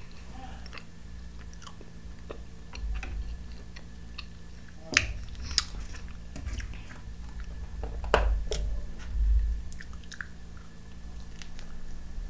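A person chewing food close to the microphone, with scattered wet mouth clicks and a few sharper clicks about five and eight seconds in.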